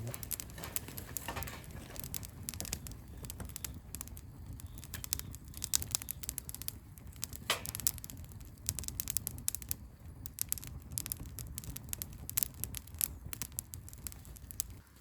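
Newly lit wood bonfire crackling, with a dense run of irregular sharp snaps and one longer crack about seven and a half seconds in.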